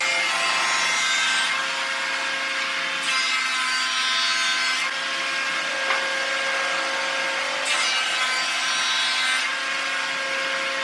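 Electric power tool running steadily with a motor whine, cutting or sanding wood in three passes a few seconds apart, each pass adding a rasping noise.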